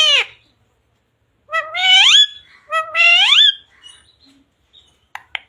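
Pet Indian ringneck parakeet vocalising in a high, speech-like voice: the tail of one call at the start, then two calls that rise in pitch, about a second apart. A few short sharp clicks come near the end.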